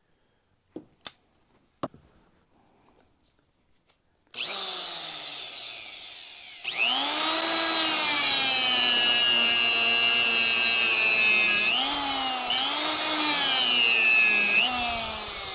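A few light clicks, then about four seconds in a handheld power tool's motor starts and runs. About two seconds later it speeds up and runs loud and steady, its pitch dipping briefly a few times near the end as it is loaded.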